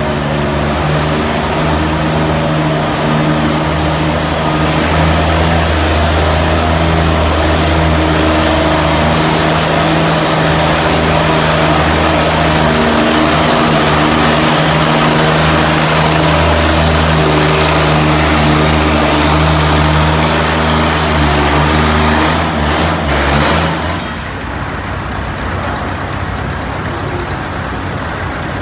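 Antique pulling tractor's engine running hard under load through a pull, a loud steady drone holding one pitch. About 24 seconds in it drops off sharply as the throttle is cut, leaving a much quieter engine running.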